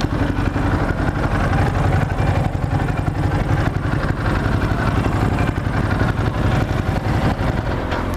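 Motorcycle engine running steadily under a continuous rush of wind and road noise.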